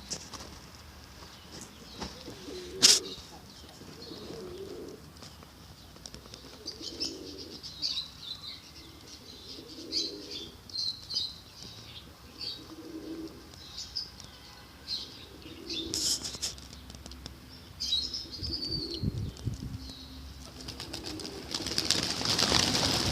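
Pigeons cooing repeatedly in low, rounded notes, with high chirps from small birds between them. There is a sharp click about three seconds in, and a loud flurry of wing flapping near the end.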